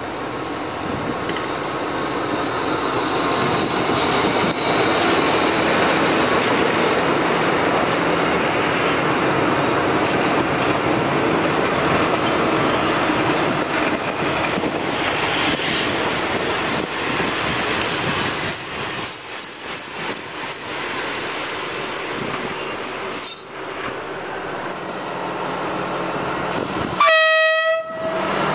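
Passenger train carriages rolling past on the rails, a steady rumble and rattle, with high-pitched wheel squeal two-thirds of the way through. Near the end a diesel locomotive's horn sounds once, briefly.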